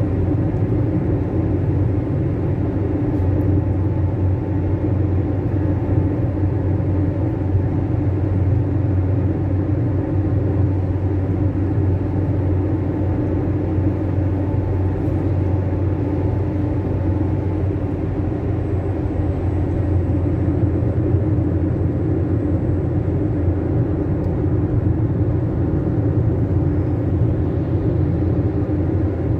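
Fiat Fiorino 1.4 van driving at a steady speed, heard from inside the cab: a constant low engine drone and road noise.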